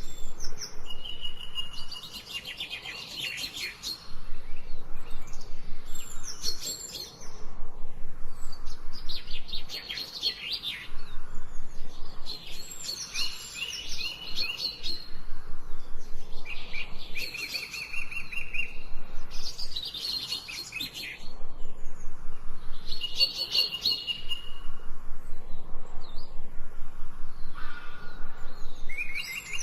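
Songbirds singing in a forest: rapid trilled phrases, each a second or two long, repeated every three to four seconds over a faint steady background.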